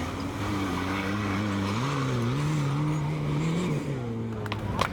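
Off-road 4x4's engine running under load, its pitch wavering, rising about two seconds in and falling away near the end.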